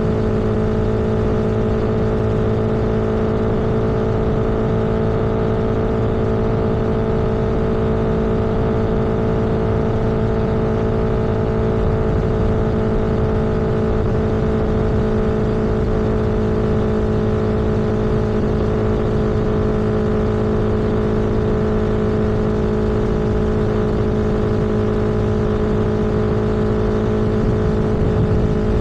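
Vehicle engine running at a steady cruising speed, a constant hum that holds one pitch, under steady wind and road noise.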